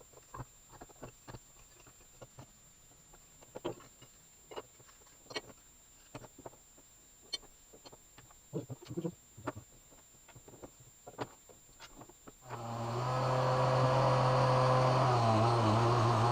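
Scattered light clicks and knocks of parts and tools being handled. About twelve seconds in, a power tool's electric motor switches on and runs steadily and loudly, with a low hum and a hiss, its pitch dipping briefly near the end.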